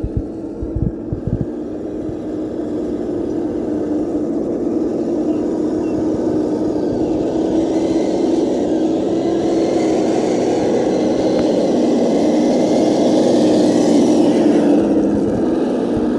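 Kyosho Blizzard RC snowcat's electric motor and tracks running with a steady whirring drone that grows louder, with a rising hiss building from about halfway through. Low thumps come near the start and the end.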